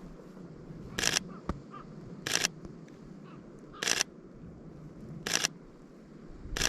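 Sony A7III camera shutter firing five single shots, about one every second and a half, each a short sharp click.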